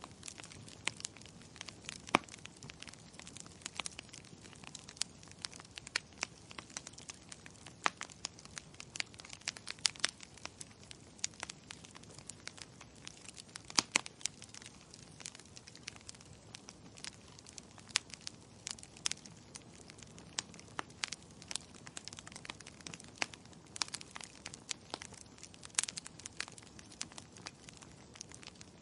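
Wood fire crackling: frequent irregular sharp pops and snaps over a soft steady hiss.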